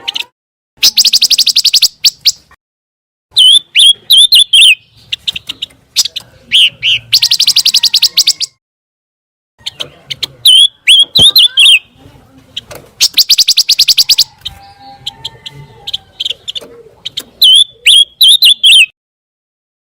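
Pancawarna songbird singing in loud, repeated phrases: fast rattling trills about a second long alternate with short runs of quick whistled notes, with brief pauses between phrases.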